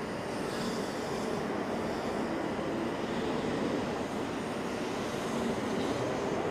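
A train running along the platform: a steady rumble with faint humming tones, growing a little louder near the end.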